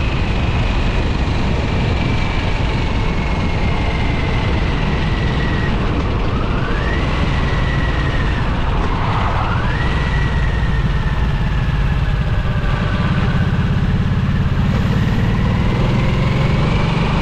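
2022 Harley-Davidson Nightster's liquid-cooled Revolution Max 975T V-twin on the move. The engine note falls steadily as the bike slows, jumps up sharply twice, about six and nine and a half seconds in, as it changes down a gear, then rises again near the end as it accelerates.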